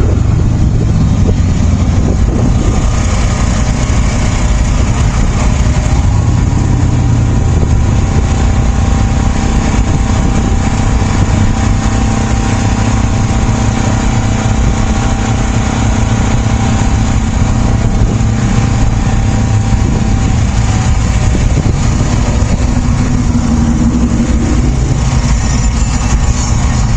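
A car engine running steadily at low revs, a deep rumble with a steady hum; the engine note strengthens briefly near the end.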